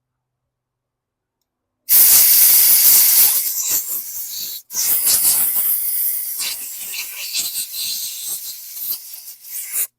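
A pressurised spray hissing in two long blasts while a lawn-mower carburetor is being cleaned. The first blast starts abruptly about two seconds in, and there is a brief break near the middle. The second blast is more sputtering and cuts off suddenly near the end.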